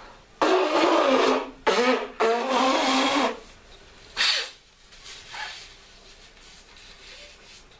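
A person blowing their nose hard, three loud honking blasts in a row, then a short sniff.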